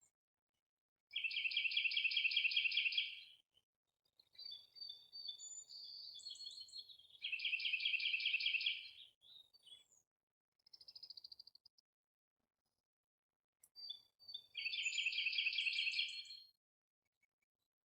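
Birds calling: three rapid, buzzy trills of about two seconds each, with shorter chirps and whistled notes between them.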